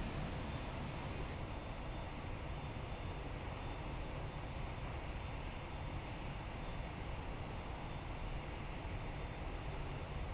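Jet aircraft engines running, heard as a steady rumble with hiss that holds level throughout.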